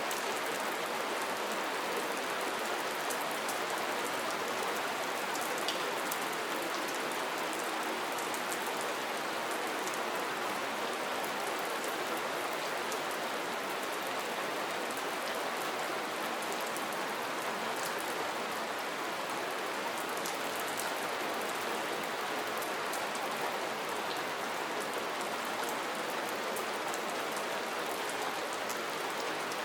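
Steady rain falling, an even hiss with many fine drop ticks pattering through it.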